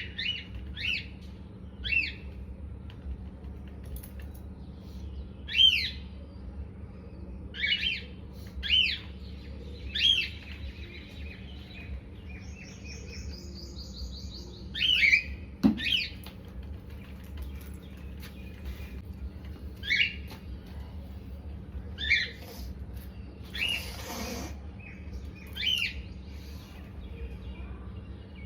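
A bird chirping: short, sharp calls repeated every second or two, with a quick run of high falling notes about halfway through. A short burst of noise comes near the end, and a steady low hum runs underneath.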